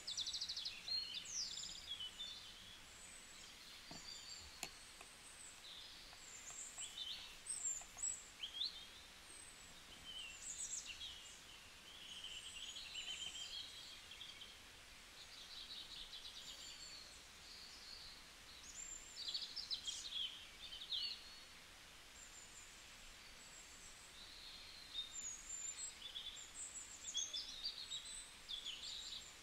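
Small birds chirping and singing, with many short calls, trills and quick up-and-down whistles coming in clusters, over a faint steady hiss.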